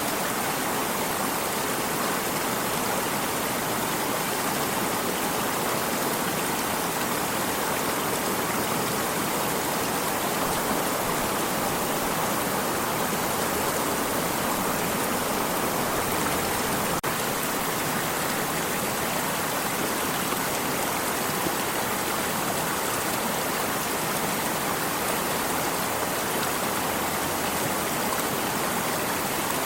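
Water stream running steadily, an even, unbroken rushing of water.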